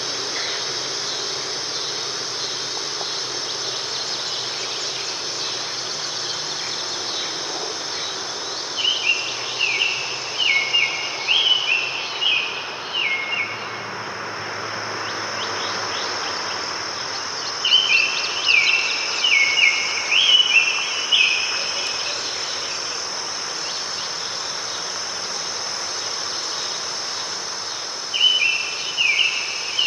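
A continuous high insect trill, like crickets, over a steady wash of noise, with a songbird singing the same short phrase of stepped notes three times, about every nine seconds.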